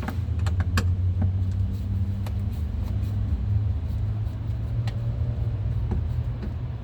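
Scattered light clicks of small screws and a screwdriver being handled during door panel removal, over a steady low rumble.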